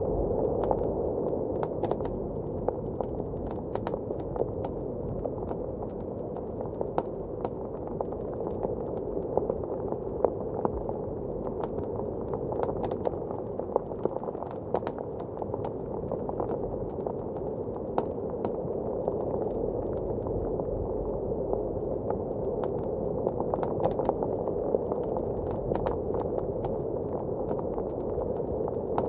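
Wood fire in a fireplace crackling with frequent irregular sharp pops, over a steady, muffled rush of blizzard wind.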